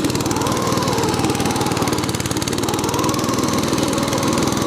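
Snowmobile engine running steadily under load with a fast, even pulsing, its note rising and falling a little as the machine works through deep powder snow.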